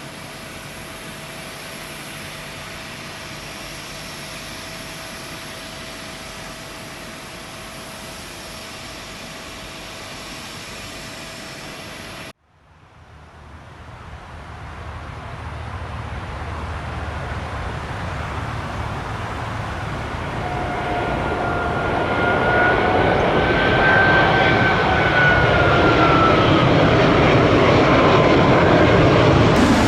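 Jet airliner engines. A steady hum with a faint constant tone for about twelve seconds, then after a sudden break a jet that grows steadily louder as it comes closer, its engine whine rising and then falling in pitch.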